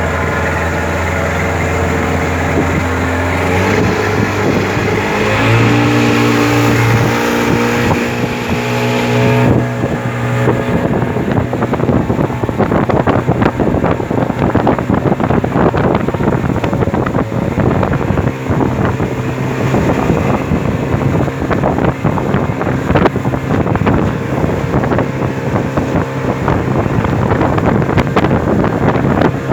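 Motorboat engine speeding up in steps over the first several seconds, then running steadily at cruising speed under a loud rush of wind and water with constant crackling.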